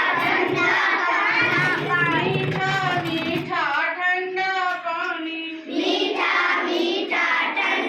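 A child's voice singing a rhyme in Hindi, with one long held note a little past the middle.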